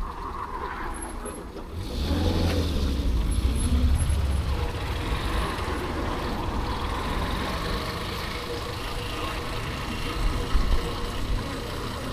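Road traffic and riding noise from a motorbike moving through city streets, with wind on the microphone. A louder low rumble starts about two seconds in and carries on.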